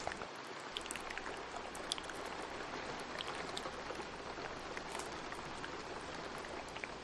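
Recorded rain falling steadily, with scattered small wet clicks and pops of ASMR mouth sounds layered on top.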